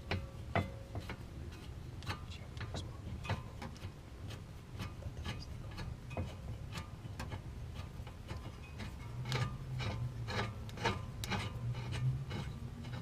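Irregular metallic clicks and clinks of hand tools, with ratchet-like ticking, as the brake caliper bolts are threaded back in on the front hub.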